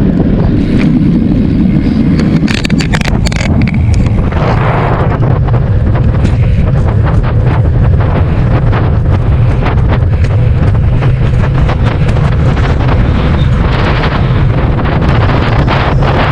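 Heavy wind buffeting the microphone of a moving bicycle's camera, a steady low rumble with frequent small clicks and knocks throughout.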